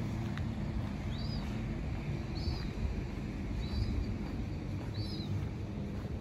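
A small bird repeating one short chirp about every second and a quarter, five times, over a steady low rumble.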